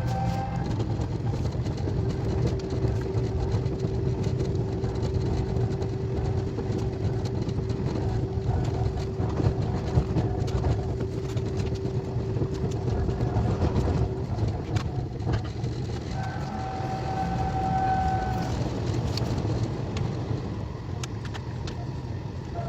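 KTX high-speed train running: a steady low rumble with scattered clicks, and a steady whine through the middle.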